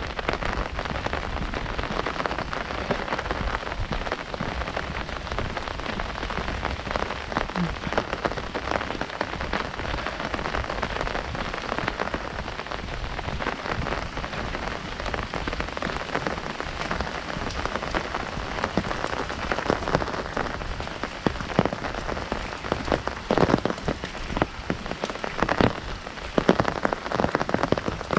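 Heavy rain falling on an umbrella canopy overhead: a dense, steady crackle of drops, with louder single drops striking it in the last several seconds.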